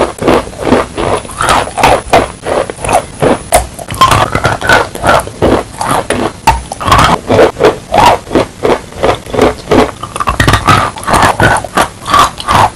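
Close-up chewing of chunks of clay dipped in wet clay slurry: a steady run of wet crunches, about three or four a second.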